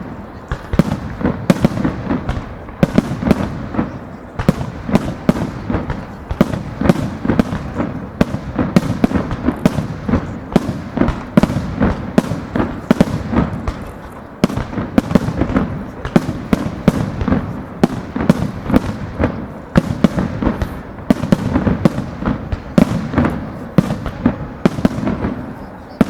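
Aerial fireworks barrage: shells bursting in rapid succession, several loud bangs and crackles a second with deep booms, easing briefly a few times.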